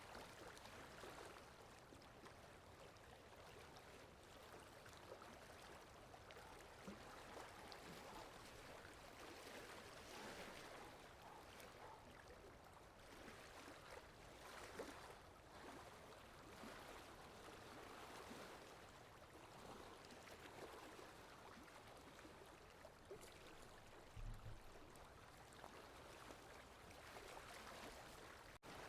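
Faint water lapping with wind, a soft, even wash that swells and eases irregularly with small ticks of splashing. A brief low thump about three-quarters of the way through.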